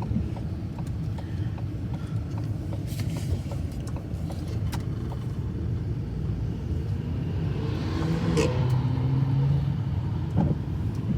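Car engine and road noise heard from inside the cabin as the car pulls away and drives on: a steady low rumble, with the engine note standing out more about eight seconds in.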